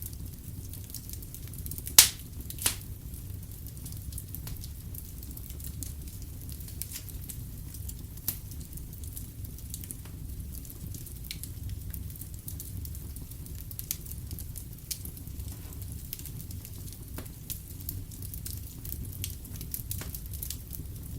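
Wood fire in a fireplace crackling, with scattered pops over a low steady rumble. Two loud pops come about two seconds in, half a second apart.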